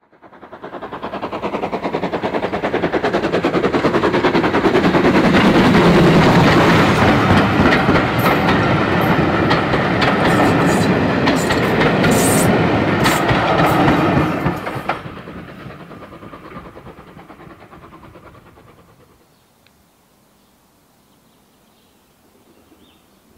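A train passing close by at speed. The noise builds quickly to a loud rumble and rattle of wheels on rails, with sharp clicks and clatter at its height. After about fifteen seconds it dies away, leaving faint outdoor background.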